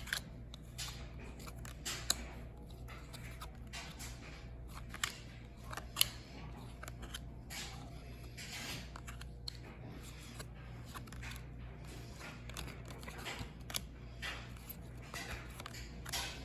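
Trading cards handled and flipped one after another: irregular soft slides, rustles and small snaps of card stock, with a faint steady low hum underneath.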